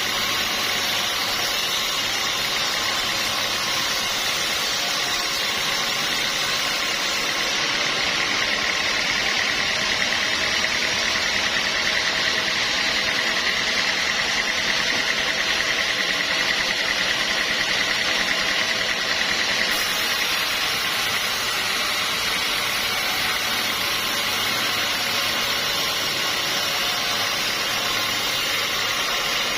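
Sawmill machinery running steadily, with a high whine that grows stronger for about ten seconds in the middle and then eases back.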